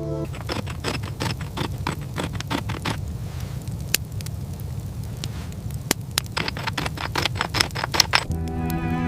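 Campfire crackling: many sharp, irregular pops and snaps over a low, steady rumble. Music with bowed strings comes back in near the end.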